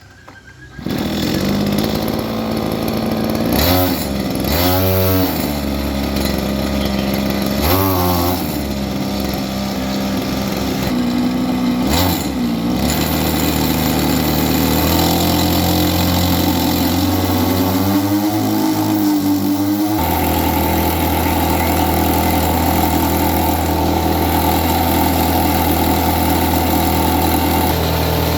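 Small grass-cutter engine driving a homemade generator starts up about a second in, revs up and down several times, then settles into a steady run, stepping up to a higher steady speed a little past the middle.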